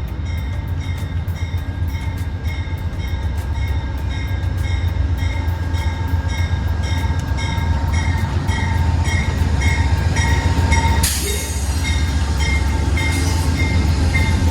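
Amtrak train pulling into a station behind a GE Genesis P42DC diesel locomotive, its 16-cylinder engine giving a heavy, steady rumble. Its bell rings about twice a second, and a sudden hiss of air comes about eleven seconds in.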